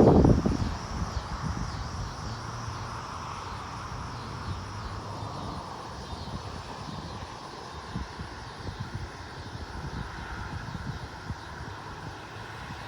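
Steady outdoor background ahead of a thunderstorm: light wind with insects buzzing high, and a faint distant engine hum that slowly shifts in pitch in the second half.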